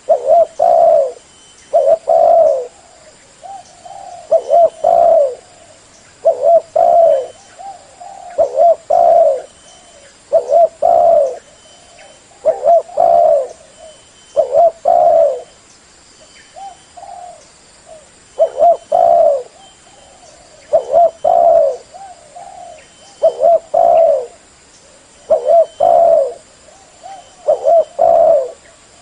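Spotted dove cooing over and over, in low phrases of two or three coos repeated about every two seconds: the calling used as a lure for wild doves.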